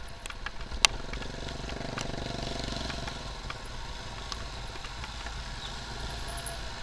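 Motorcycle ride in traffic: steady engine and road rumble, with a vehicle's engine swelling and fading about two seconds in and a few sharp ticks near the start.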